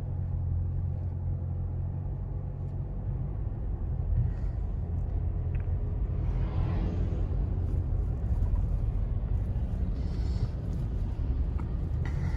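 Steady low rumble of a car driving, heard from inside the cabin, with a brief swell of broader noise about seven seconds in.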